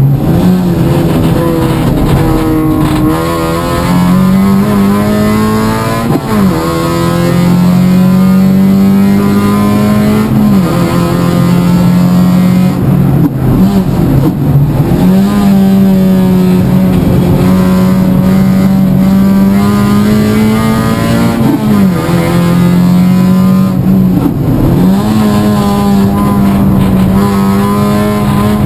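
Toyota Yaris Cup race car's engine heard from inside the cabin while lapping at racing speed. It holds a steady, slowly rising note along the straights, and its pitch dips sharply and climbs back several times through the corners.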